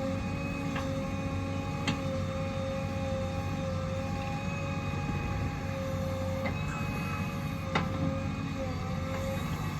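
Heavy diesel earthmoving machinery running steadily with a constant whine, and three sharp metallic knocks: one about a second in, one about two seconds in, and one near the end.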